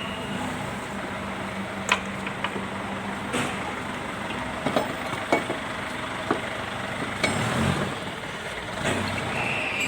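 Scattered light metal knocks and clinks of hand tools working on a Yanmar compact tractor's rear axle, over a steady background rumble. A low hum drops out about a third of the way in, and a short high squeak comes near the end.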